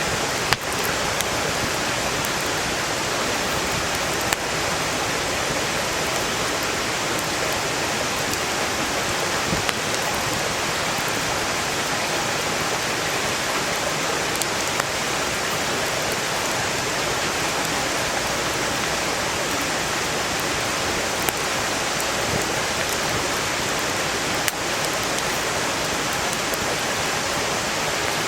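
Steady rushing of a valley stream, with a handful of sharp pops from burning firewood scattered through it.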